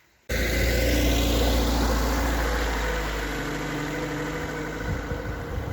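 Niva off-roader's engine running while the car is driving, cutting in suddenly a fraction of a second in and easing off gradually.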